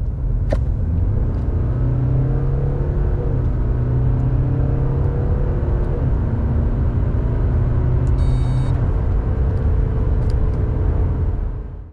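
2023 BMW 520d xDrive's 2.0-litre four-cylinder turbo-diesel pulling hard under acceleration from 80 to 120 km/h, a steady low rumble with road noise, its engine note climbing slowly. A brief high beep sounds about eight seconds in.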